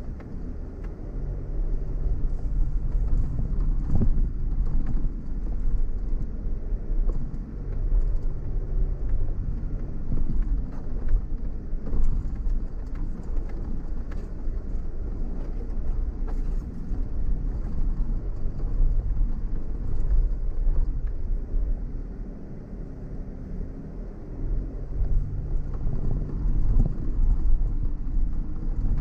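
Jeep engine running at low speed over an off-road track, a steady low hum whose pitch shifts a little as the driver eases on and off, with a few scattered knocks from the suspension and the rough ground.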